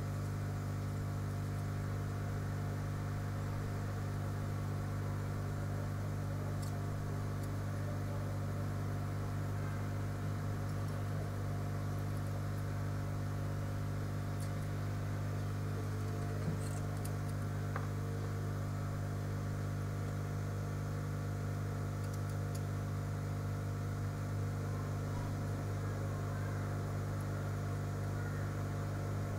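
Steady low electrical hum with a few faint small clicks, one of them about halfway through.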